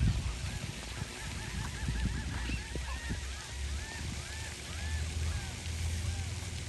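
A flock of waterfowl calling: many short honks, each rising and falling in pitch, overlapping in a rapid chorus that is thickest about two seconds in and then thins out.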